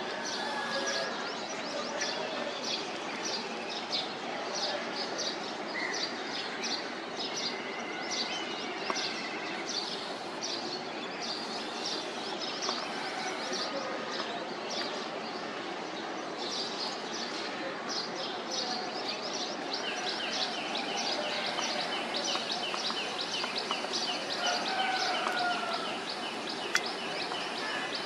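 Small birds chirping over steady outdoor background noise, with short high chirps repeating all through and a fast, even run of chirps in the last third.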